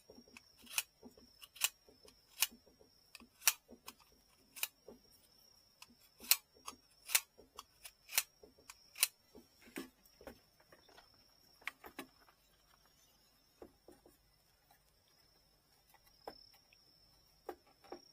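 A series of sharp clicks from hand work on a bamboo fishing rod's tip, about one a second for the first half, then sparser and fainter. A faint steady high whine runs underneath.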